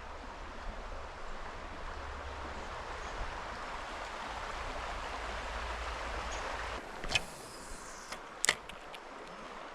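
Small creek running: a steady rush of flowing water. About seven seconds in it turns a little quieter, and a few sharp clicks follow.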